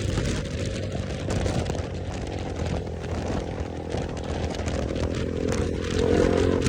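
KTM motorcycle with a newly fitted aftermarket exhaust running on the move, its engine note under steady wind and road rush, getting louder about six seconds in.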